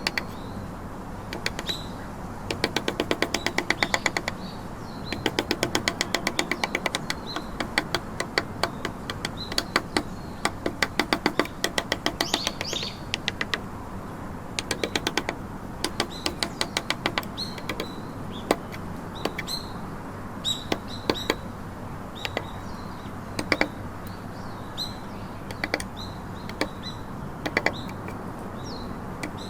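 Carving chisel being struck rapidly into trembesi wood, in quick runs of many sharp taps with short pauses between runs.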